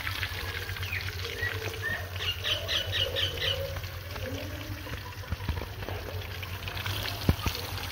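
Chicken pieces deep-frying in hot oil in a kadhai: a steady sizzle with scattered crackles and a sharp pop near the end. About two seconds in, a bird chirps about six times in quick succession.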